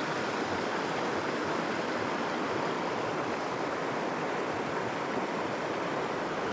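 Small mountain creek rushing over rocks and little falls, a steady even hiss of moving water.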